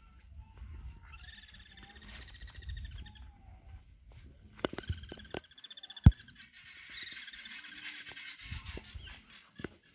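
Birds calling in rapid, high trills in three spells, over a low rumble of wind on the microphone. A single sharp knock about six seconds in is the loudest sound.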